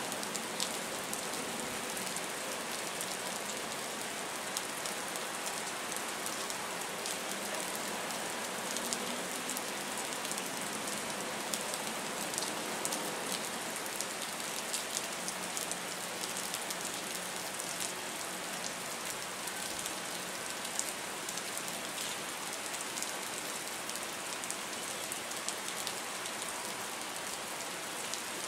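Steady rain falling on a wet concrete pier and the harbour water, with many small, sharp drop ticks over an even hiss.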